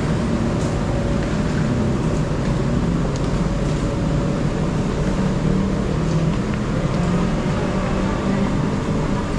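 Steady low rumble of a train standing at the station with its engine running, a few wavering low tones in it.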